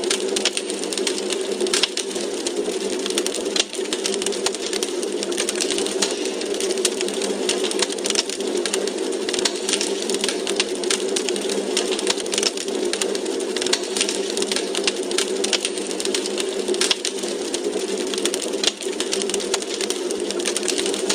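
Wood fire crackling, a dense, continuous run of small snaps and pops over a steady low rush.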